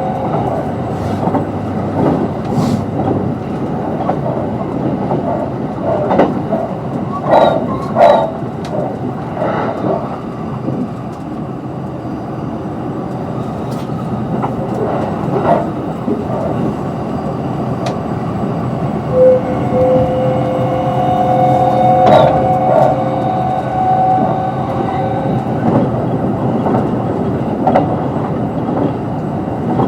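Kintetsu 22600 series limited express train with Mitsubishi IGBT-VVVF drive, running at speed and heard from inside the car. There is a steady rumble of wheels on rail, sharp clicks now and then, and a steady whine that comes in about twenty seconds in.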